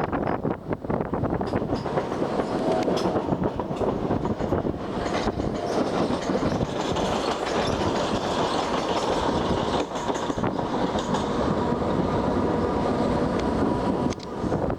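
Class 455 electric multiple unit running along the track, heard from on board: steady rumbling running noise with wheels clicking over rail joints at irregular intervals. A faint steady whine joins in during the second half.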